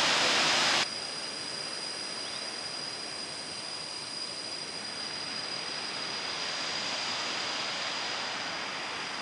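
Steady rushing of a waterfall: loud for the first second, then, after an abrupt drop in level, a quieter, more distant even rush.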